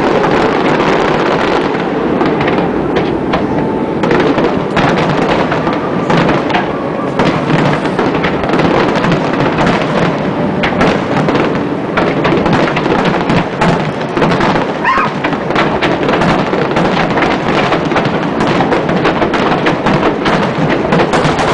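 A fireworks display with a dense, unbroken barrage of shell bursts and crackle. One rising whistle from a whistling shell comes about two-thirds of the way through.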